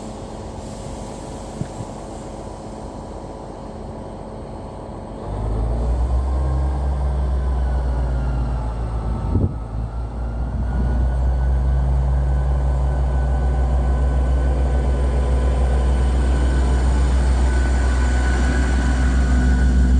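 Diesel multiple-unit train departing. Its engines idle at first, then rev up suddenly about five seconds in to a steady, deep drone that grows louder as the train pulls away.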